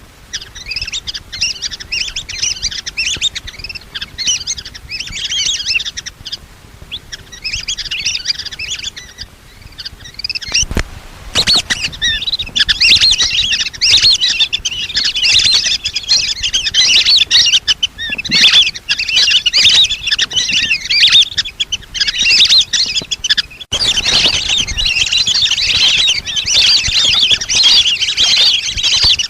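A flock of lesser whistling ducks calling: many shrill, overlapping whistled chirps. The calling thins out briefly twice, then grows denser and louder for the rest of the time.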